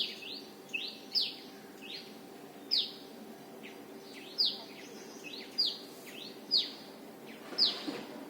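Common tailorbird calling: a string of sharp, high 'chiyak' notes, each a quick downward sweep, repeated about every half second to a second. A faint steady hum runs underneath.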